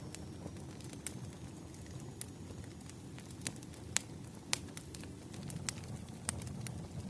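Wood fire crackling: irregular sharp pops over a steady low rumble, the loudest two pops about four and four and a half seconds in.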